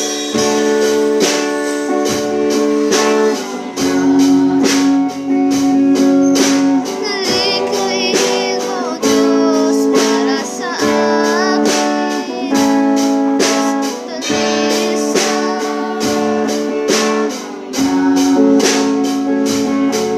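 Live band music: a drum kit keeping a steady beat under strummed guitar and sustained chords.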